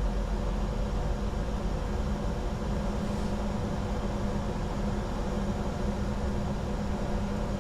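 Steady flight-deck noise of a Bombardier Challenger 605 jet in descent: an even rush of airflow and air-conditioning noise over a low, steady hum.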